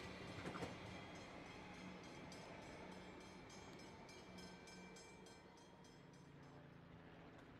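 Comeng electric suburban train pulling away and fading into the distance, its rumble dying down to a faint low hum. Faint, even ticks sound about three times a second through the middle.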